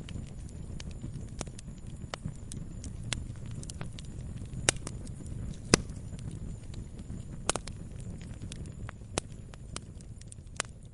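Wood campfire crackling: a steady low rumble of burning with scattered sharp pops and snaps, a few much louder pops around the middle.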